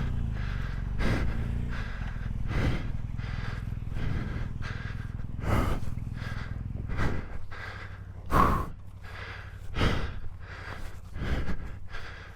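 A motorcycle rider breathing hard and fast into a helmet microphone, shaken just after colliding with a bear, with a breath about every second and a half. A motorcycle engine idles low underneath, quieter after about eight seconds.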